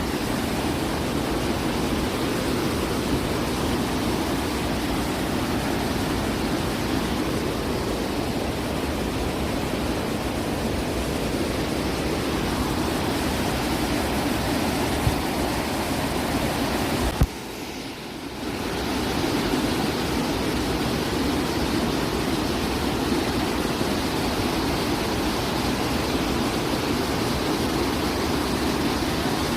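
Steady roar of Kakabeka Falls, a large waterfall. It drops away suddenly for about two seconds a little past halfway, then comes back as before.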